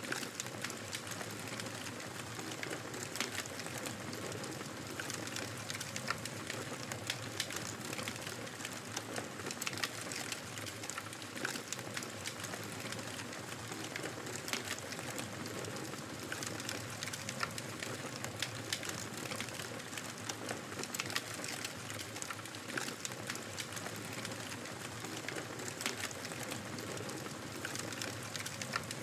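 Wood fire crackling in a fireplace: a steady rushing hiss of the flames with frequent small, sharp pops and snaps.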